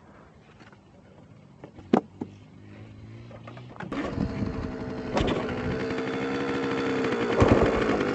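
A sharp click about two seconds in, then a dirt bike engine comes in about halfway through and runs at a steady pitch, growing louder toward the end.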